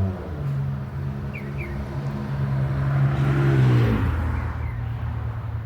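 A motor vehicle passing close by: its engine grows louder, then drops in pitch as it goes past about four seconds in. A few faint bird chirps sound over it.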